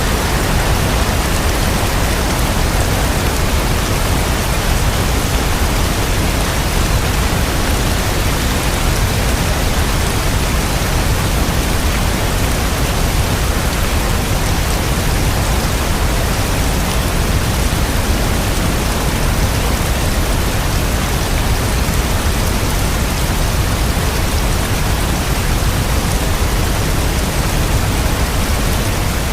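Steady rain: a dense, even hiss of falling rain with no separate drops or thunder standing out.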